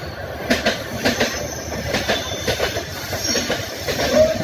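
Passenger train running on the track, heard from on board: wheels clattering over rail joints with a continuous rumble, and a brief squeal near the end.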